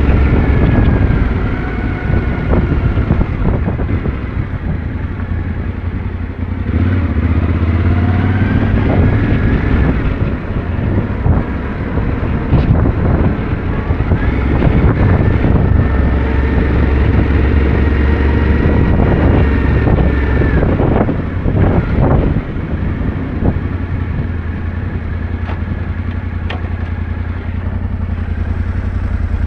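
Yamaha Ténéré 700's parallel-twin engine running while riding, the revs rising and falling through the throttle and gear changes, with a few knocks about twenty-one seconds in.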